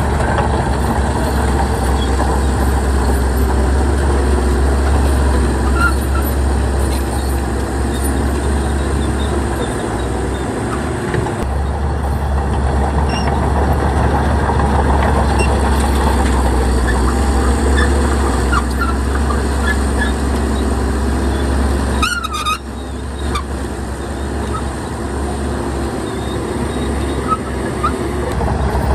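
Heavy diesel earthmoving machinery running steadily with a deep rumble, with a few short squeaks and a brief clatter about three-quarters of the way through.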